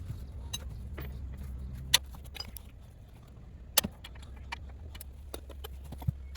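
Scattered light metallic clicks and clinks, with two sharper knocks about two and four seconds in, over a low steady hum.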